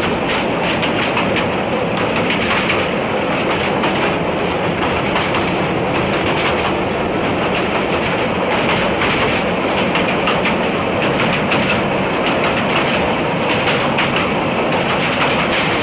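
Train running steadily along the track, with a constant rumble and irregular clicks of wheels passing over rail joints.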